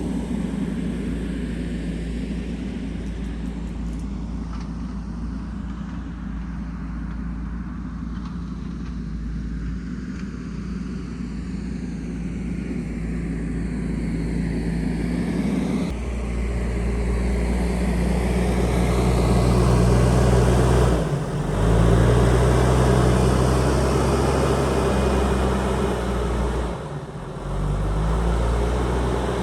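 JCB backhoe loader's diesel engine running steadily while working. It gets louder about halfway through and drops briefly twice near the end.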